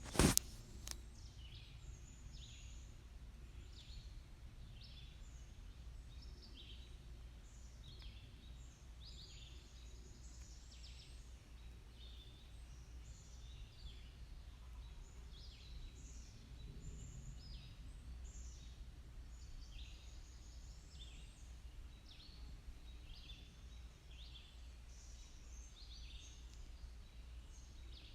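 Small birds chirping steadily, many short quick calls, over a faint low steady rumble, with one sharp knock right at the start.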